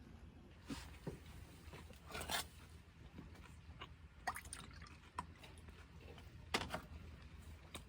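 Faint, scattered small handling sounds: a few light clicks and taps, irregularly spaced, with a short rustle about two seconds in.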